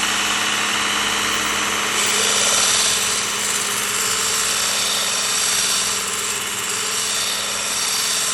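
Work Sharp Ken Onion Elite knife sharpener with its grinding attachment running a 120-grit belt: a steady motor hum under a loud belt hiss. The hiss swells at times as a curved gutting blade is ground on the slack belt.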